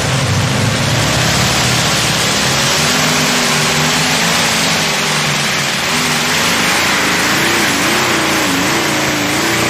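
Modified pulling tractor's engines running flat out under load during a pull: a dense, loud engine noise whose pitch wavers up and down as the load changes.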